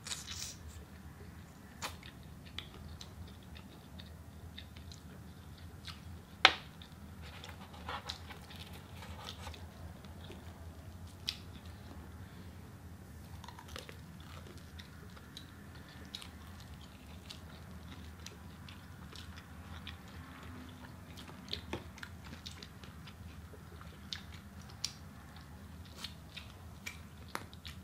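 Close-up chewing and biting of fried chicken wings, with scattered small wet clicks and light crunches. One sharper, louder click comes about six and a half seconds in. A low steady hum sits underneath.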